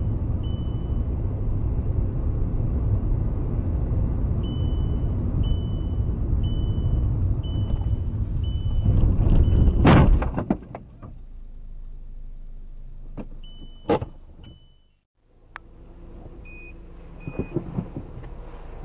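Car road and engine noise with a short, high electronic beep repeating about once a second, then a loud crash impact about ten seconds in. Afterwards there is quieter road noise with a long beep and a sharp click.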